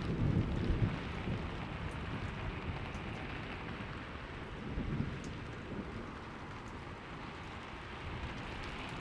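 Steady rain falling, with a low thunder rumble dying away in the first second and a softer roll of thunder about halfway through.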